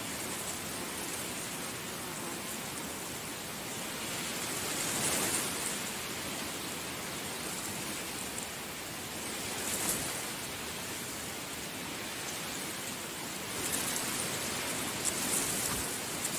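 Heavy rain falling steadily, a dense even hiss with brief heavier gusts now and then.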